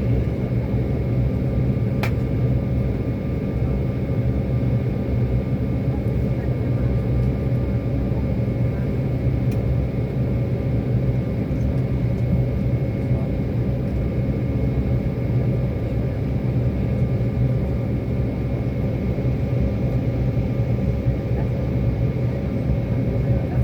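Airliner cabin noise: a steady jet-engine rumble with a thin steady whine over it, heard from inside the passenger cabin. A single faint click about two seconds in.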